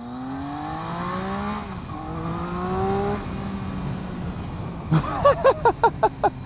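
Triumph Speed Triple 1050's three-cylinder engine accelerating hard, its note rising, one upshift about one and a half seconds in, rising again, then running steady. From about five seconds in, a quick run of loud, sharp hits plays over the engine.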